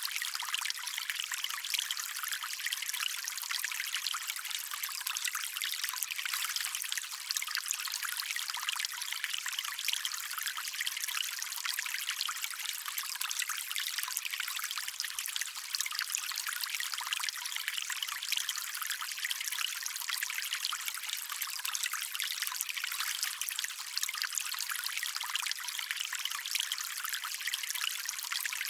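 Small stream trickling and running steadily over stones, a constant light, splashy wash of water with no deep rumble.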